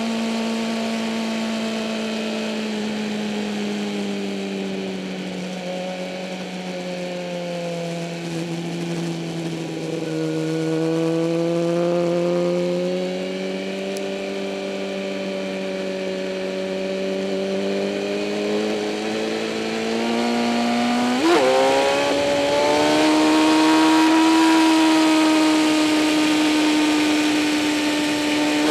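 2008 Kawasaki ZX-10R's inline-four engine running under steady throttle, its revs drifting slowly down and up. About two-thirds of the way through the revs dip and rise sharply, then hold at a higher note.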